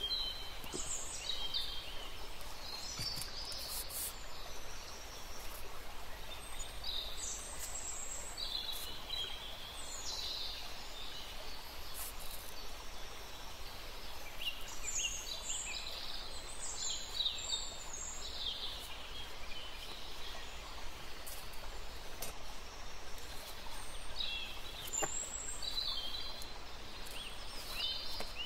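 Small birds chirping in scattered short, high calls that glide in pitch, some in quick clusters, over a steady background hiss.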